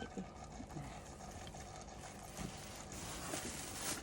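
Faint handling noises, a few soft knocks and rubbing, as a heavy new toaster oven is lifted and unpacked.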